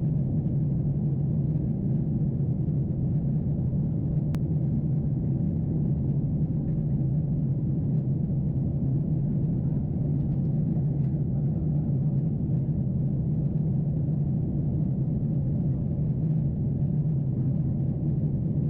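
Steady low rumble of airliner cabin noise inside a Boeing 747-8 in flight, heard from a window seat, with one faint click about four seconds in.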